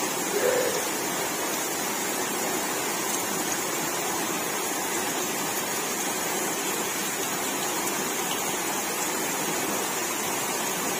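Swollen small river rushing steadily, high with floodwater after heavy rain.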